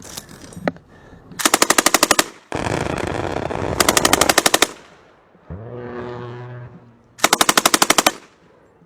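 Machine gun fired in three bursts of rapid automatic fire, each about a second long: suppressive fire to keep the enemy's heads down. Between the second and third bursts a steady low hum is heard.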